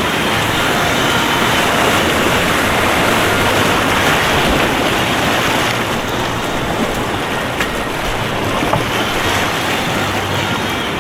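White water rushing in a whitewater kayak course, a steady loud noise that eases slightly about halfway through, with a few brief knocks in the second half.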